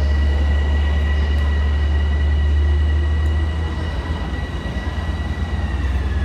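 Long Island Rail Road electric commuter train at the station: a steady high whine over a loud low rumble, the whine dipping slightly in pitch and fading near the end.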